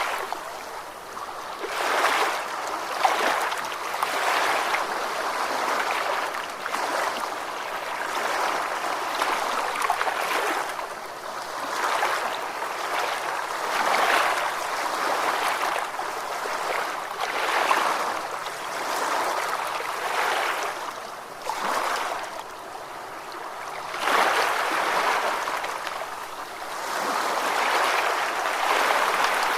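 Ocean waves washing onto a shore: a continuous rush of water that swells and falls back every couple of seconds, with little deep rumble.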